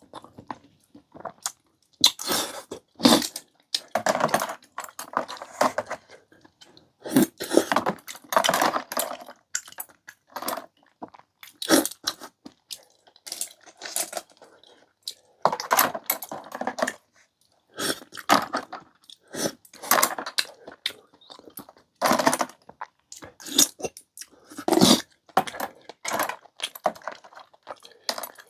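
A person chewing and eating a bowl of clam kalguksu noodle soup, in short irregular bursts of mouth sounds with brief pauses between mouthfuls.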